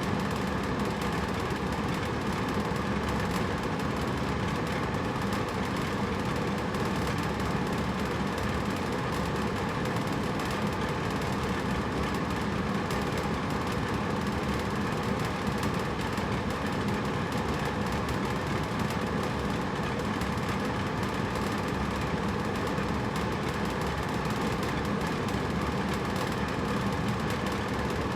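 Hotel-room air conditioner running steadily: a constant even whoosh of air over a low hum, with no change in level.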